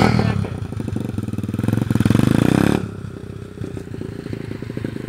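125cc pit bike engine revving: a sharp burst at the start, a louder rev about two seconds in that cuts off suddenly near three seconds, then running at lower revs.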